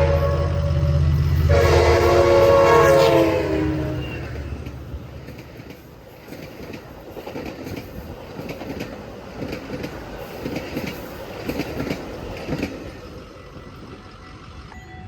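Metra commuter train's diesel locomotive passing: its air horn sounds a chord, one blast ending about a second in and a second, longer blast that dies away by about four seconds in, over the low engine drone. Then the cars roll by with a rapid clickety-clack of wheels on the rail joints, fading out near the end.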